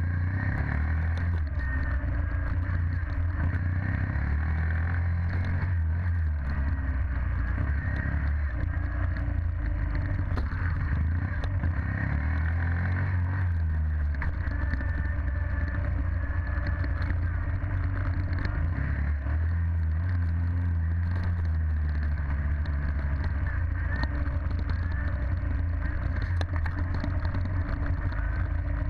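Dirt bike engine running at a fairly steady speed, a low drone with light clicks and rattles over it.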